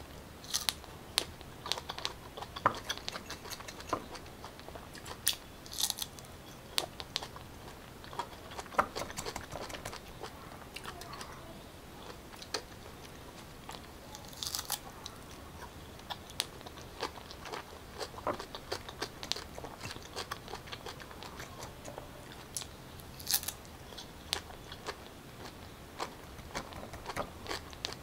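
Biting into and chewing raw pineapple: irregular crunches and wet mouth clicks, with a few louder bites spread through.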